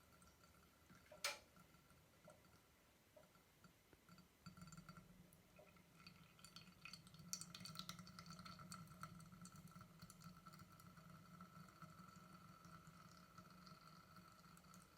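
Quiet handling of slime-making materials: one sharp clink about a second in, like a hard utensil or container knocking a bowl, then faint scattered crackles and small clicks, over a faint steady hum.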